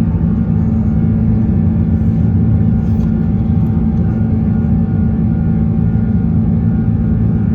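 Airbus A330-300 with Rolls-Royce Trent 700 engines under takeoff thrust, heard from inside the forward cabin as a loud, steady low rumble.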